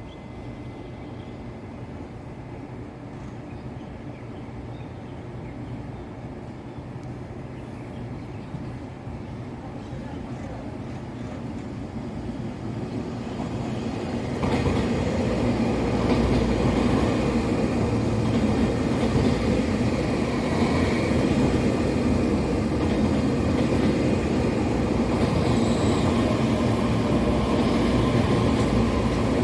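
Taiwan Railways EMU3000 electric multiple unit train running past on the track. Its rumble grows steadily louder, then jumps up about halfway through to a loud, steady running noise that holds to the end.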